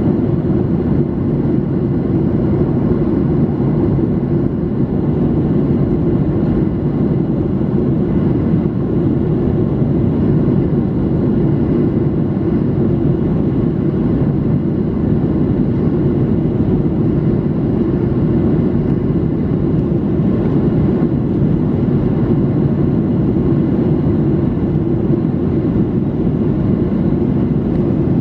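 Steady, unchanging cabin noise of a Boeing 737-800 in flight: the deep rush of airflow over the fuselage mixed with the drone of its CFM56 turbofan engines, heard from a window seat.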